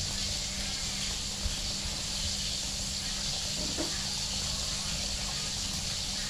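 Fish frying in hot oil in a pan, a steady sizzling hiss.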